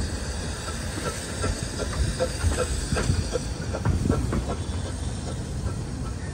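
15-inch gauge miniature railway train running, with a steady low rumble and a hiss, and a run of wheel and track clicks and knocks through the middle.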